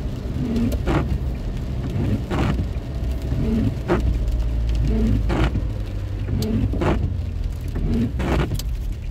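Inside a car driving in the rain: steady engine and road rumble, with a windscreen-wiper stroke about every second and a half.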